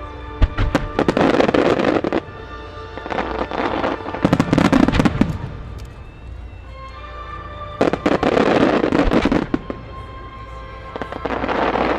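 Aerial fireworks bursting and crackling in about four loud volleys, with music playing steadily underneath.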